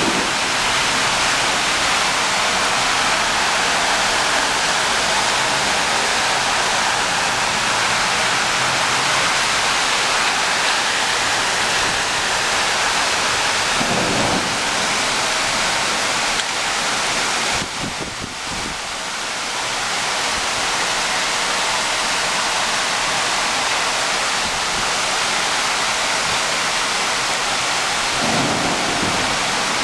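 Heavy rain pouring steadily, a dense even hiss, with a brief dip in level about eighteen seconds in.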